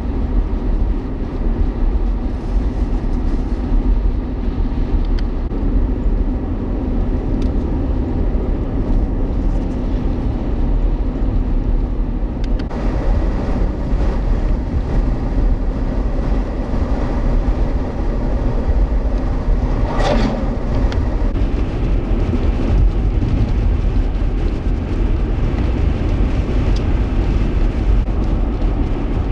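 Steady low rumble of a vehicle on the road, with one short, sharper noise about twenty seconds in.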